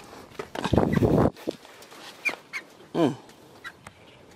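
Chickens calling in a collapsed poultry house: two short high chirps and one call falling steeply in pitch, after a loud rustling noise about a second in.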